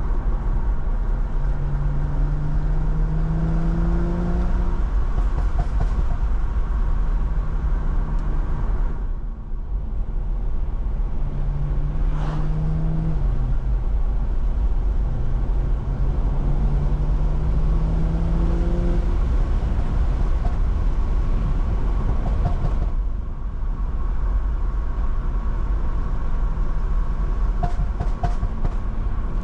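BMW M340i's stage 2 tuned B58 turbocharged 3.0-litre inline-six pulling hard several times, its note rising in pitch through each pull, with brief lifts off the throttle about 9 and 23 seconds in. Steady low tyre and road noise from the wet road runs underneath.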